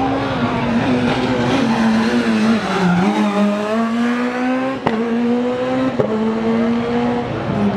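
Rally car engine accelerating hard, its note rising and stepping down at two quick gear changes, each marked by a sharp crack.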